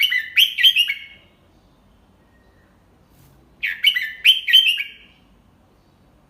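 Red-whiskered bulbul singing: the same short phrase of several quick, clear notes, given twice about three and a half seconds apart.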